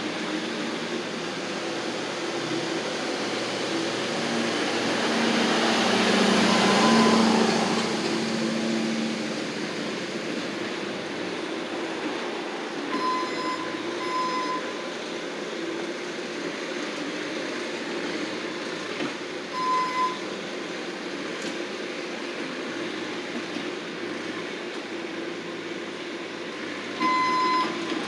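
Bobcat skid-steer loader engine running steadily, growing louder for a few seconds about six seconds in, then settling. A back-up alarm beeps twice near the middle, once more a little later, and several times in quick succession at the end.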